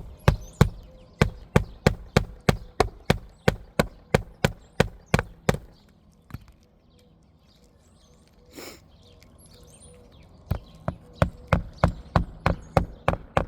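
Hammer driving roofing nails through an asphalt shingle: steady blows about three a second, a pause in the middle, then another run of blows near the end.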